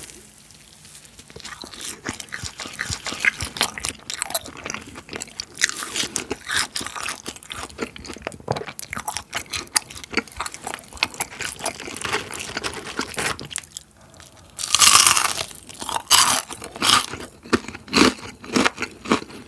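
Biting and chewing crispy fried chicken: a steady run of crunches, with a louder stretch of crunching about fifteen seconds in followed by several sharp crunches.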